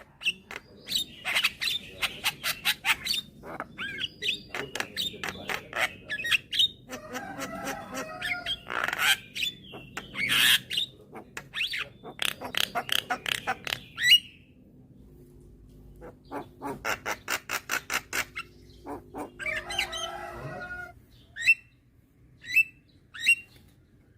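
Javan myna (jalak kebo) calling: long runs of rapid sharp clicks mixed with harsh, squawking chatter. After a pause of about two seconds past the middle come more clicks and a squawk, then a few short separate chirps near the end.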